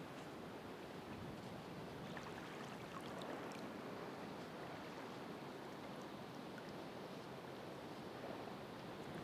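Ocean surf washing steadily, a continuous hiss of breaking water with a few faint ticks of fizzing foam.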